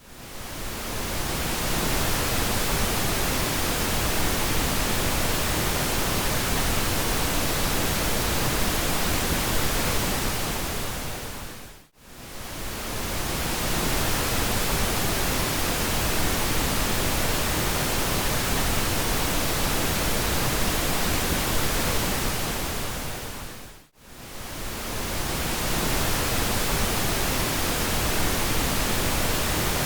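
Pink noise: a steady, even hiss with a little more weight in the low end. It dips briefly almost to silence at the start and twice more, about twelve seconds apart, swelling back each time.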